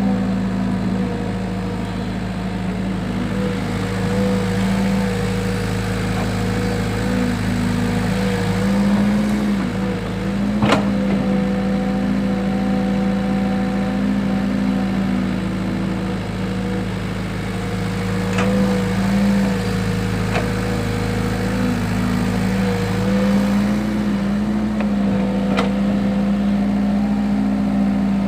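Excavator's engine running steadily at a constant speed, with a few sharp clicks or knocks now and then.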